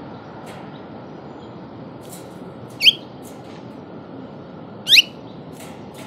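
A small songbird gives two short, sharp chirps that sweep steeply upward, about two seconds apart. Faint ticks sound between them over a steady background rumble.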